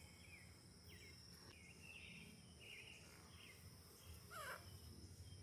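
Faint outdoor ambience: birds chirping in short falling notes, with one longer falling call a little past four seconds in, over a steady high insect trill.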